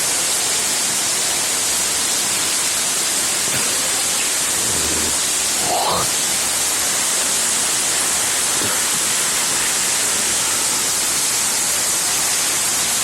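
Heavy rain pouring down in a steady, unbroken hiss. A brief rising sound, like a short call or voice, rises above it about six seconds in.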